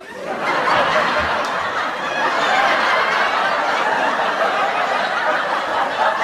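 A crowd of people laughing together, a canned laugh-track sound effect, starting abruptly and holding at a steady level.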